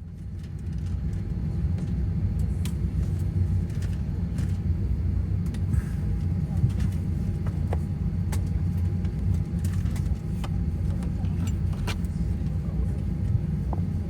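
Steady low rumble of a vehicle under way, heard from inside it, with a faint steady hum and a few light clicks.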